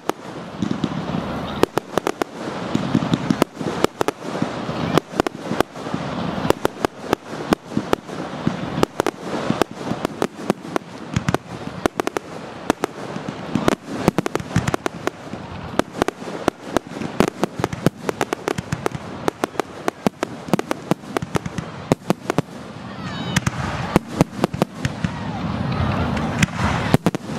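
Fireworks going off in quick succession: a dense run of sharp cracks and bangs, several a second.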